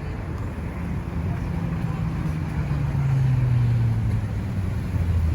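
City street traffic: a motor vehicle passing close by, its low engine note slowly falling in pitch and loudest about three seconds in.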